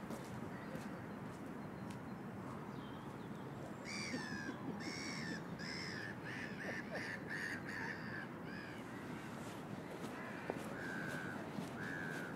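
A bird calling: a run of about eight short, harsh calls starting about four seconds in and coming faster, then three more spaced-out calls near the end, over a steady low background noise.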